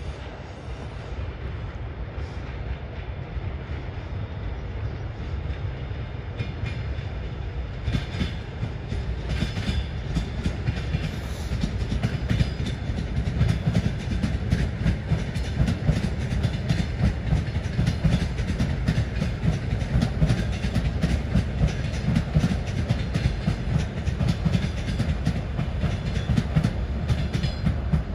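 Electric suburban train passing, a low rumble that builds from about eight seconds in, with a steady run of wheel clatter over rail joints through the rest.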